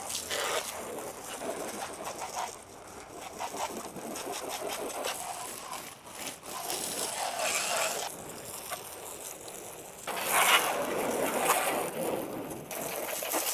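Water from a garden hose spraying onto a car's body, rinsing off the soap. The spray is uneven and grows louder for a few seconds near the end.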